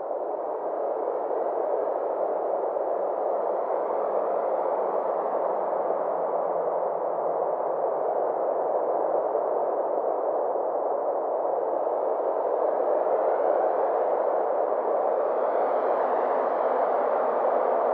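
Synthesized 'space' ambient drone: a steady, filtered rushing hiss centred in the middle range, with slow sweeping swells. It fades in at the start, then holds steady.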